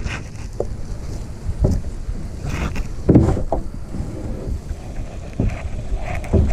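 Paddle knocking and scraping in short strokes as a grounded kayak is worked free, over a steady rumble of wind on the microphone.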